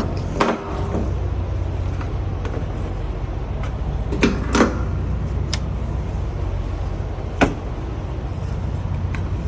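Steady low mechanical hum at a truck diesel fuel island while fuel is pumping, with a few sharp clicks and knocks: one about half a second in, a pair just past four seconds, one at five and a half seconds and one at seven and a half.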